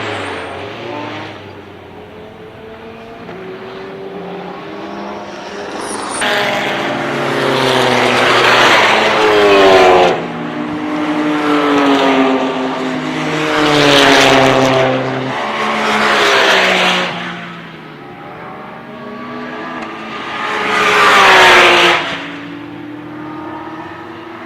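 Porsche 911 GT3 Cup race cars passing at speed one after another, their flat-six engines revving up through the gears with rising pitch and dipping at each shift. The loudest passes come about ten seconds in and again near the end.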